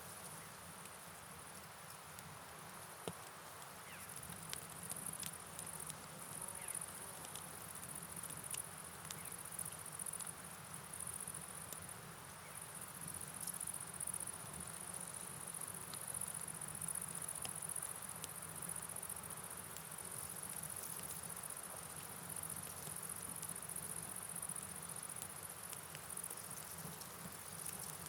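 Night rain and river ambience: a steady hiss of rainfall and flowing water with scattered faint ticks, under a continuous high-pitched insect chorus.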